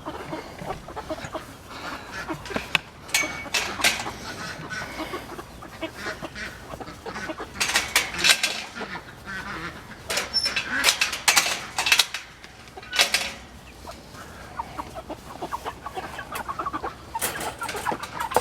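Meat chickens clucking and squawking as they are handled and moved, with several louder bursts of calls.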